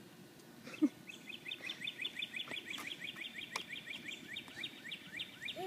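A small songbird singing a long, rapid trill of repeated upward-sweeping notes, about eight a second, starting about a second in and lasting about five seconds. A brief louder sound comes just before the trill begins.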